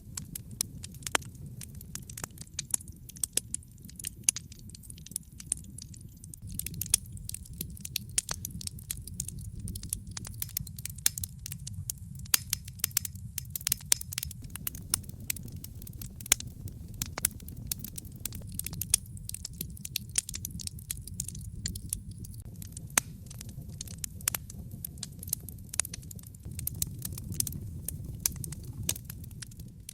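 Wood fire crackling in a fireplace: many sharp pops and snaps over a steady low rumble of the burning flames.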